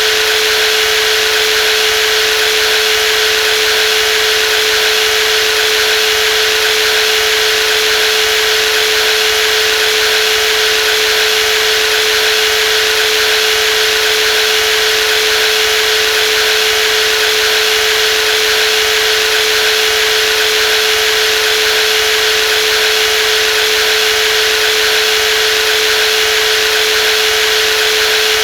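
Brushless cordless jigsaw running steadily without a break, a steady whine over a hiss that never changes in pitch or level.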